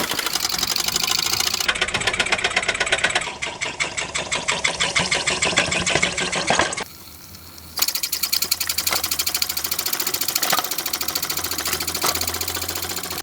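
Mamod TE1A miniature steam traction engine running, its small cylinder giving a fast, even stream of exhaust beats and mechanical clatter. The beats drop away briefly around seven seconds in, then resume.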